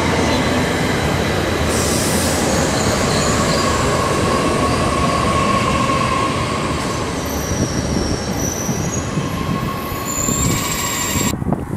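Electric regional multiple-unit train running through the station: steady wheel-on-rail rumble with high wheel squeals that shift in pitch as it goes.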